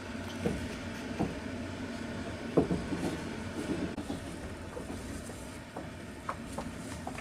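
Passenger train running, heard from inside the carriage: a steady low rumble with irregular knocks and clatter from the wheels on the rails, the loudest knock about two and a half seconds in.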